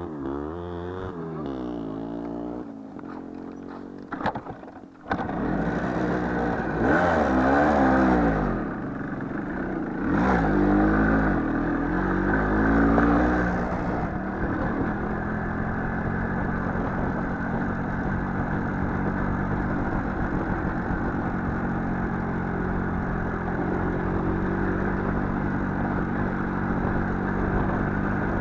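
Motorcycle engine revved up and down several times, then settling to a steady idle for the second half.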